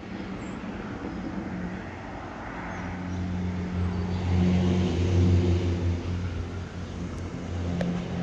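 A passing engine: a steady low hum that swells to its loudest about halfway through and then fades.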